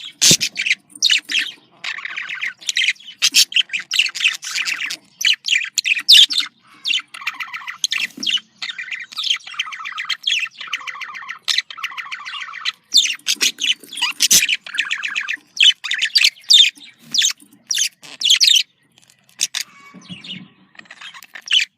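Budgerigars chattering and warbling: a fast, unbroken jumble of short chirps, buzzy warbled runs and the odd squawk, with brief gaps between phrases. This is the breeding-season chatter of male and female budgies. A couple of sharp clicks sound, one right at the start and one near the middle.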